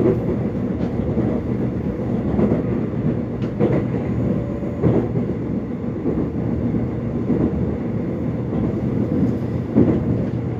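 Korean subway train running, heard from inside the carriage: a steady low rumble with a few scattered clacks of the wheels.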